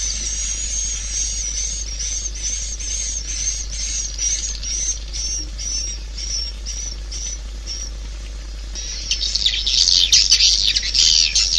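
Swiftlet calls of the kind played to lure swiftlets into a bird house: a run of high, regular chirps about two a second that grow fainter, then, about three-quarters of the way in, a louder, dense chatter of many overlapping chirps.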